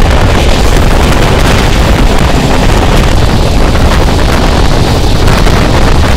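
Loud wind buffeting the microphone held out of a moving express train's door, over the steady rumble of its coaches running on the rails at speed.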